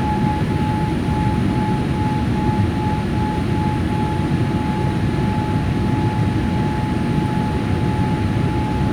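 Jet airliner cabin noise in flight: a steady, dense rumble of engines and airflow with a thin, steady whine above it.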